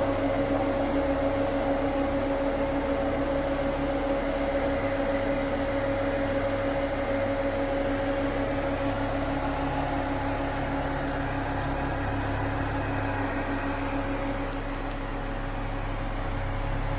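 Ford Falcon XR6 Turbo's turbocharged inline-six engine idling steadily with a constant hum, running well on its newly fitted water pump with no coolant leaking.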